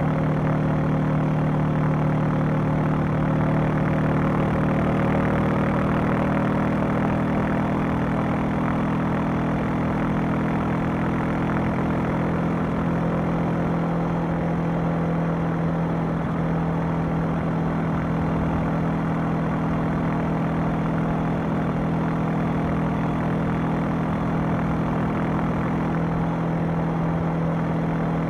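Honda CB500X's parallel-twin engine and exhaust running at a steady engine speed, its note holding nearly constant pitch, over an even hiss of wind and road noise.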